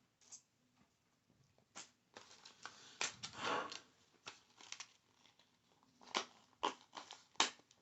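Close-up handling of small collectible items: a string of sharp taps and clicks, with a longer scratchy, crinkly rustle about three seconds in and the sharpest tap near the end.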